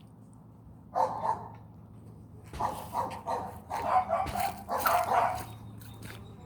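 Dog barking: one bark about a second in, then a quick run of barks for about three seconds.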